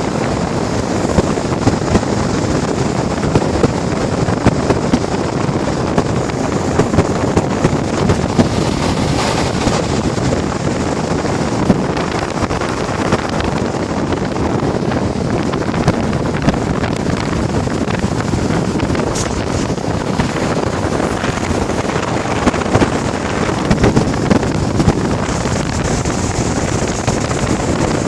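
Air conditioner running: a steady, loud rush of fan and airflow noise, with faint small clicks scattered through it.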